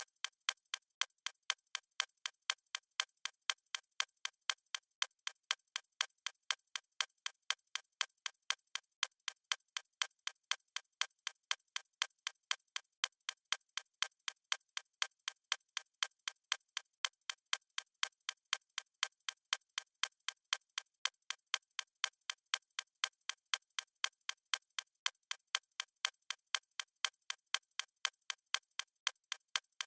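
Stopwatch ticking sound effect: sharp, high clicks repeating fast at an even, unchanging rhythm, with no low end.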